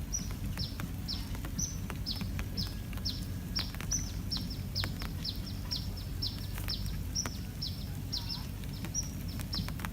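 A bird calling over and over in short, falling chirps, about three a second, over a steady low rumble.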